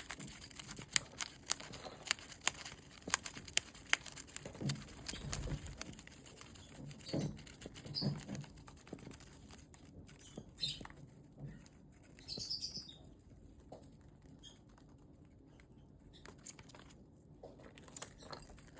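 Lovebird tearing paper with its beak: sharp clicks and crinkling, busiest in the first few seconds, with a few short chirps near the middle.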